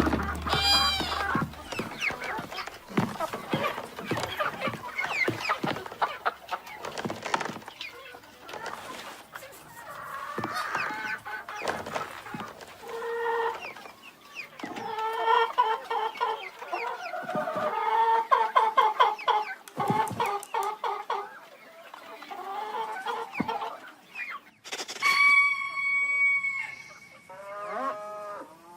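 Chickens clucking and squawking in many short calls, with one long held call about three quarters of the way through.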